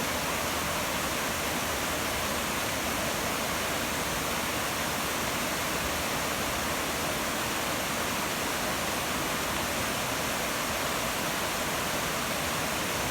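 Mountain creek rushing over cascades and small waterfalls: a steady, even roar of white water with no breaks.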